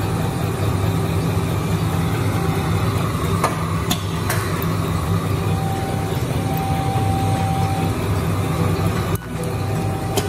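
Bamboo toothbrush handle drilling machine running with a steady motor hum, and a few sharp clicks from the drilling action about three to four seconds in.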